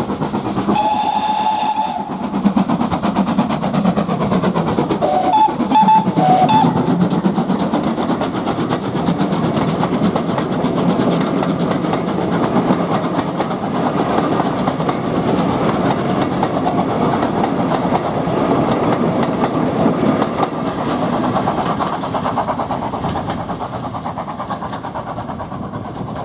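Steam locomotive whistle: one blast of about a second, then a few short toots, followed by the train running past, wheels and carriages clattering on the rails, fading near the end.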